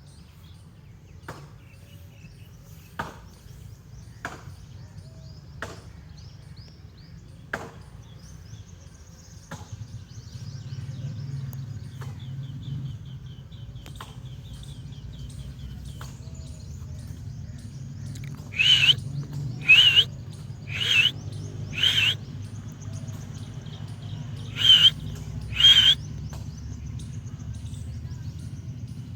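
Green parrot calling: six loud, short squawks in the second half, four in a row and then two more, with faint softer chirps earlier. Scattered sharp clicks come in the first part, and a low steady hum runs underneath.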